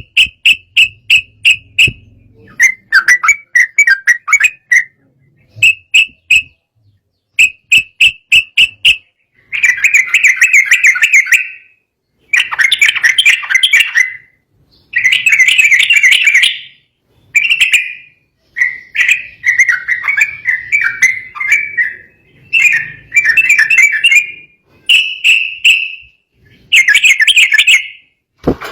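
Yellow-vented bulbul (trucukan) singing in agitated bursts: phrases of rapid chirps and trills, each one to three seconds long, with short pauses between them. This is the excited, 'emotional' song used to provoke rival bulbuls into answering.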